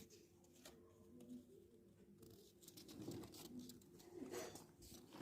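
Near silence, with faint rustling and crinkling of a paper sheet being creased and folded along marked lines, a little louder about three seconds in.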